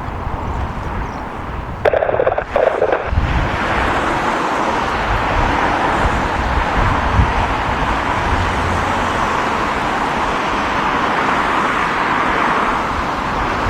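Jet engine noise of a Boeing 777-200ER on approach: a steady, broad rush that swells in about three seconds in and holds, over an uneven low rumble of gusty wind on the microphone.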